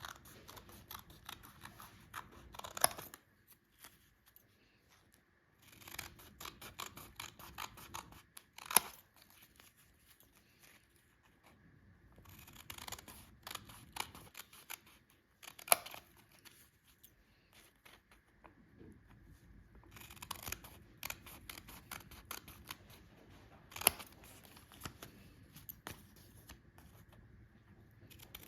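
Scissors cutting paper in four runs of quick snips, each run ending in one sharp snap as the blades close.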